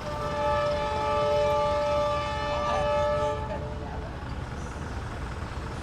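Train horn sounding one long blast of several tones held together, stopping after about three and a half seconds, over steady traffic noise.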